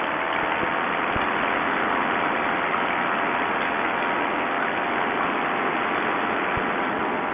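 Vittorazi Moster 185 single-cylinder two-stroke paramotor engine and propeller running steadily in flight, a constant drone under a rush of noise, picked up by the pilot's headset microphone. The engine is freshly rebuilt and its carburettor may still be set slightly rich.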